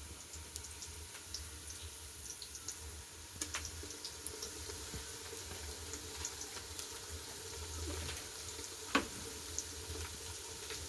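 Faint kitchen sounds: a steady low hum under scattered small ticks and crackles, with a sharper knock about nine seconds in.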